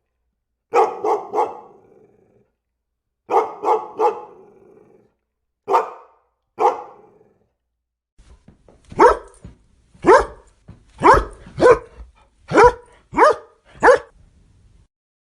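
Dog barking: two quick bursts of three barks, then two single barks, then from about eight seconds in a sharper, higher-pitched run of about eight barks.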